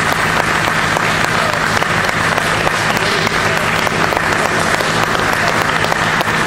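Audience applauding after a song, dense steady clapping.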